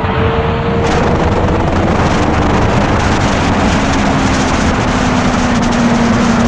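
Motorcycle on the move: a steady engine note slowly climbing in pitch under loud wind noise on the microphone.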